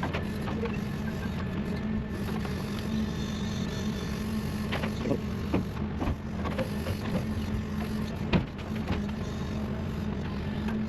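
Diesel engine of heavy equipment running steadily, with a few short knocks and clunks about halfway through and one sharper knock near the end.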